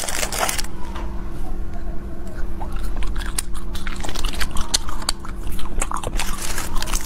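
Candy wrapper crinkling briefly at the start, then close-up biting and chewing of a soft fruit jelly candy with a liquid centre, with wet, sticky mouth clicks.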